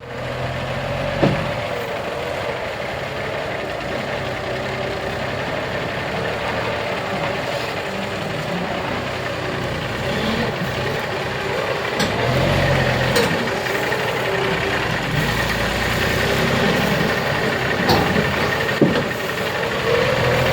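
Kenworth T800 heavy truck's diesel engine running under changing load, its pitch rising and falling, with a few sharp knocks. It gets somewhat louder about two-thirds of the way through.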